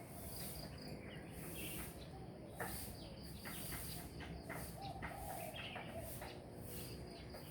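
Faint outdoor ambience: a high-pitched insect buzz pulsing at a regular rhythm, with a few short bird chirps.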